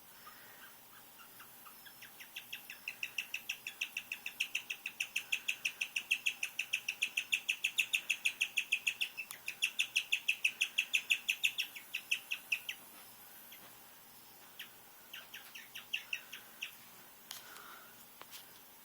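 Guinea pig chirping: a long run of short, high-pitched chirps, about five a second, building up and then stopping after about ten seconds, followed a couple of seconds later by a shorter, fainter run.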